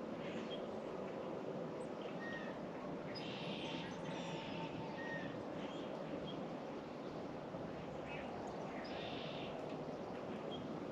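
Wild birds calling: a few short, noisy calls about a second long and several brief high notes, over a steady low background hum.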